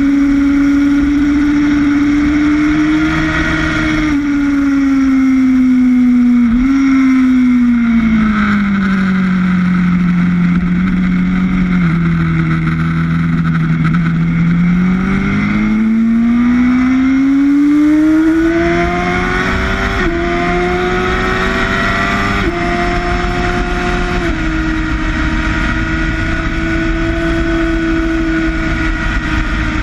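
Sportbike engine at track speed: its note falls smoothly for several seconds as the rider rolls off into a long corner, holds low, then climbs again in a few small steps as he accelerates out, over a steady rush of wind.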